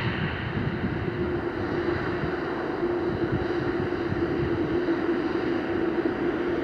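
Jet airliner engines running: a steady rumble with a constant hum held through it.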